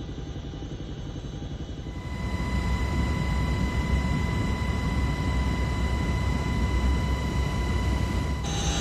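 Steady low engine rumble, with a steady high whine joining about two seconds in.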